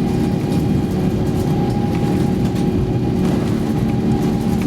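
Steady rumble and hum inside the cabin of an Airbus A350-900 airliner, its Rolls-Royce Trent XWB engines running, with a few constant hum tones over the noise.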